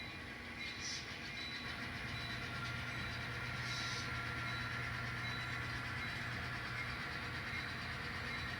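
Sound-equipped N scale model diesel locomotives running as they shove cars back, a steady diesel engine drone from the small onboard speakers. A deeper hum comes in about two seconds in and fades again near the end.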